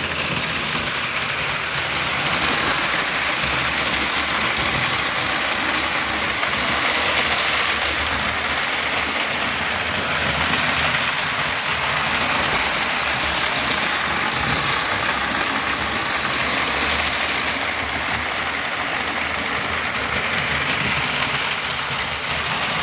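Model train running steadily on the layout's track with the throttle turned up: a continuous whir and rattle of the locomotive motor and wheels on the rails, with no stops or breaks.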